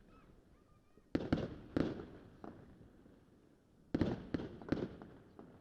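Fireworks going off: two or three sharp bangs about a second in, then a quicker run of four bangs near the end, each trailing off in echo.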